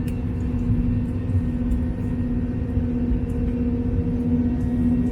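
Airliner cabin noise in flight: the steady drone of the engines and airflow, a low rumble with a constant hum.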